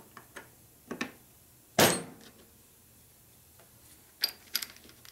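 Metal engine parts, Harley panhead rocker arms, being handled and set down: a few sharp metallic clinks and knocks, the loudest about two seconds in, then a quick cluster of clicks near the end.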